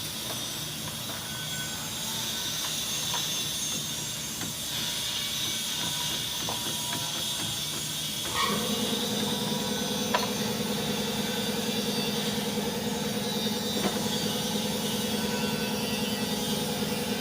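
A motor switches on about halfway through and runs with a steady hum, over a steady background hiss.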